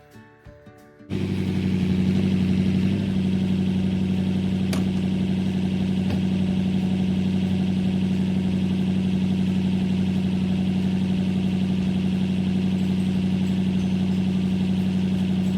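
Vehicle engine idling steadily, coming in abruptly about a second in after brief background music.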